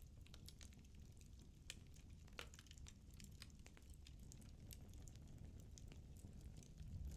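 Firewood burning in a fireplace: faint, irregular crackles and small pops over a low steady rumble of the flames.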